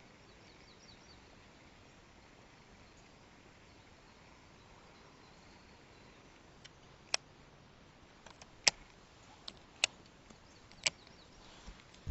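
Quiet outdoor background, then in the second half a string of about eight sharp clicks or taps, roughly a second apart, the loudest about two-thirds of the way through. A faint high chirping is heard near the start.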